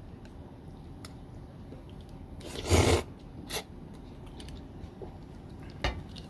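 A person slurping cold soba noodles in one short, loud slurp about three seconds in, with a few light clicks of tableware around it.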